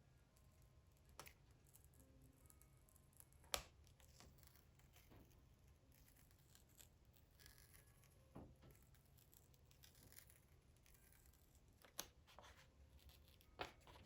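Near silence with a few faint sharp clicks and light scratching from hand work on a Torah scroll's parchment tabs; the loudest click comes about three and a half seconds in.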